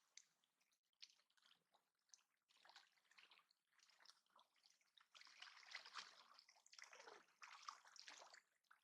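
Faint water trickling and sloshing in small irregular splashes, busier from about halfway through.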